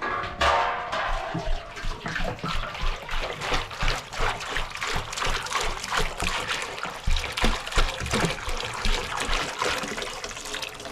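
Water splashing and trickling in many small, irregular splashes.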